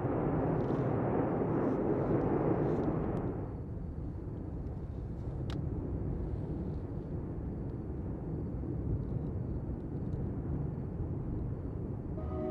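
Steady low rumbling roar, fuller and louder for about the first three and a half seconds, then thinner.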